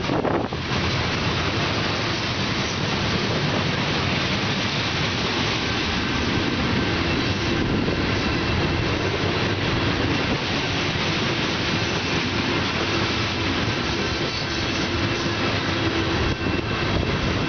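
Steel wheels of a long string of coal gondola cars rolling past on the rails: a steady, close rumble and clatter of a freight train in motion.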